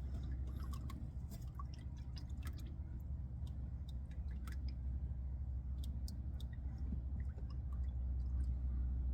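Motor oil dripping from the car's underside into a drain pan: scattered small drips and ticks over a low steady rumble.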